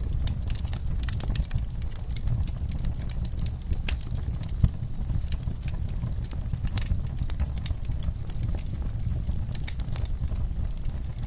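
Wood fire in a fireplace crackling: irregular sharp pops and snaps over a low steady rumble of flame, with one louder pop about four and a half seconds in.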